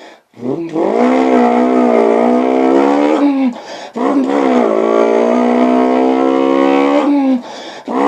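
A man imitating the engine of an old Toyota Corolla with a BEAMS engine using his voice: a loud, buzzing held note that climbs at the start and then holds steady. It breaks off twice, about three and seven seconds in, each time picking up again with a quick rise and a long steady hold.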